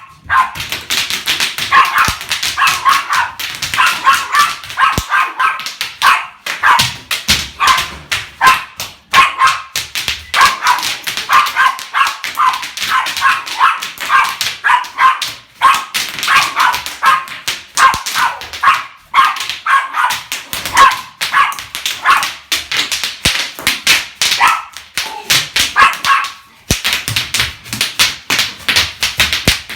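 Rapid popping, many sharp pops a second in runs broken by brief pauses, mixed with many short high-pitched cries.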